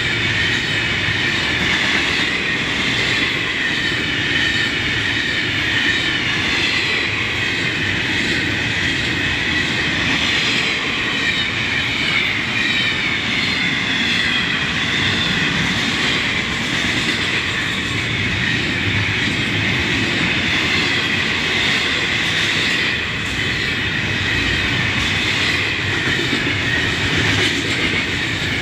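Freight train cars rolling past, a steady loud rumble of steel wheels on rail with rhythmic clicking over the rail joints. A wavering high squeal comes from the wheels.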